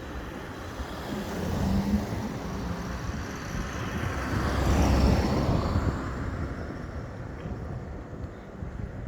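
A motor vehicle passing on the road: its engine and tyre noise swells to a peak about five seconds in, then fades away.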